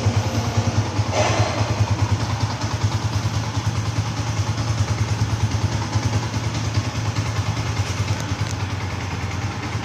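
Yamaha Sniper 150 MXi's single-cylinder four-stroke engine idling steadily through a Puma Racing replacement exhaust, an even low pulsing beat.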